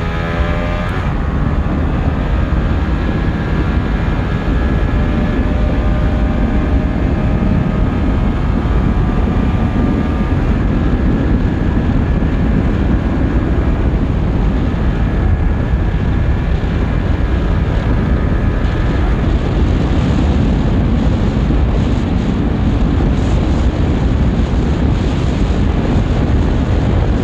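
Heavy wind buffeting on the microphone at top speed on a Honda CBR150R, with the motorcycle's engine held at high revs faintly heard under the wind.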